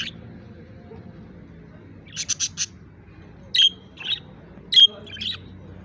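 Small birds chirping: a quick run of four chirps about two seconds in, then several sharp single calls spaced about half a second to a second apart.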